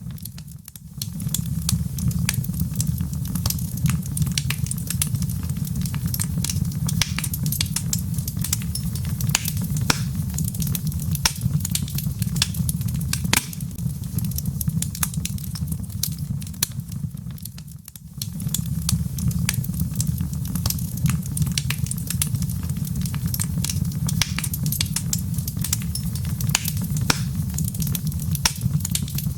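Log fire in a fireplace crackling: frequent sharp pops and snaps over a steady low rumble of burning wood. The rumble fades out briefly twice, near the start and a little past halfway.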